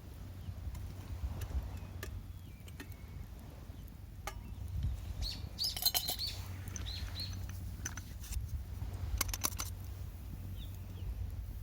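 A wild bird gives a quick cluster of short, arched chirps about halfway through, and one faint chirp near the end. Underneath is a steady low rumble with scattered sharp crackling clicks.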